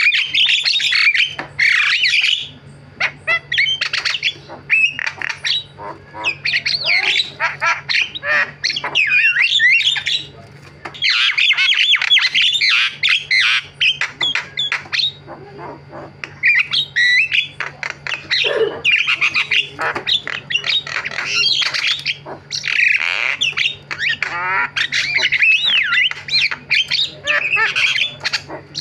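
Javan myna (white-vented myna) singing a long, varied run of harsh squawks, chatter and whistled phrases in quick bursts with short pauses between.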